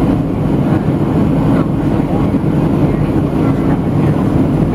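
Steady low rumble of cabin noise inside a Boeing 737-700 in flight: its CFM56 jet engines and the airflow over the fuselage, heard as an even, unbroken drone.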